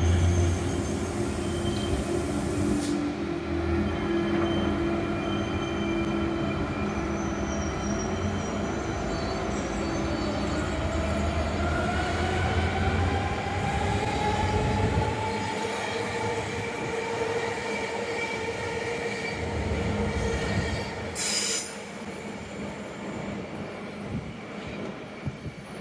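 Electric passenger trains at a station: wheels rumbling on the rails with a steady high squeal. About halfway through, an electric motor whine rises in pitch as a train gets under way. The train sound is quieter and thinner in the last part.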